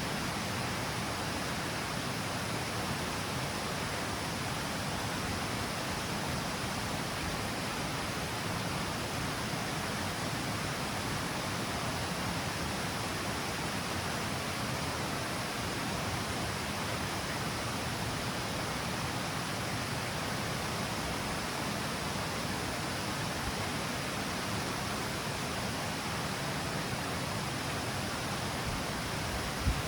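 River water falling over the stepped cascade in a steady, even rush. A brief thump near the end.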